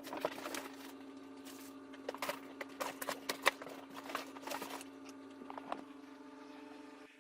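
Boxes and packaging being opened and handled: irregular rustles, scrapes and clicks, busiest in the first five seconds and sparser after, over a steady low hum.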